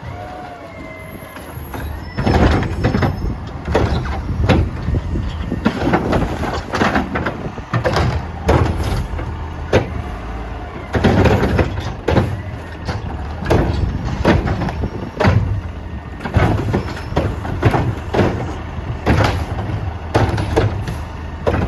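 Garbage truck collecting wheeled carts: its diesel engine runs steadily while repeated sharp knocks and bangs come every second or two as carts are lifted, shaken and emptied into the hopper.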